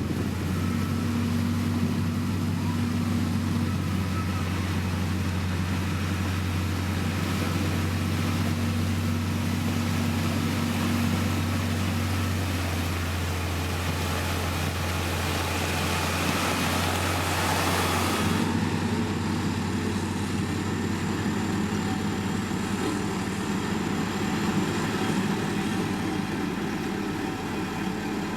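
Heavy diesel road-construction machinery running steadily with a deep engine drone. A broad hiss builds up and then stops suddenly about two-thirds of the way through, while the engine runs on.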